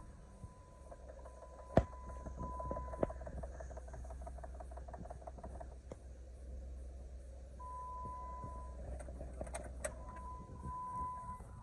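Jeep Wrangler's 3.8-litre V6 idling, heard from inside the cabin as a steady low hum. A sharp click comes about two seconds in, and a steady high tone sounds on and off.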